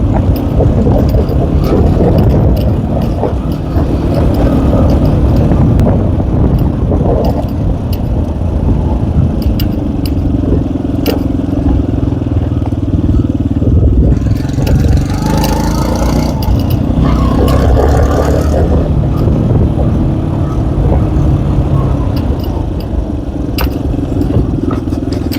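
Tomos ATX motorcycle's small engine running under way on a rough hill trail, its pitch rising and falling with the throttle, with scattered clicks and knocks from the ride.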